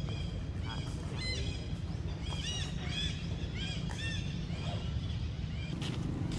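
Birds chirping: a run of short, arched high calls, several a second, that dies away about four seconds in, over a steady low background rumble.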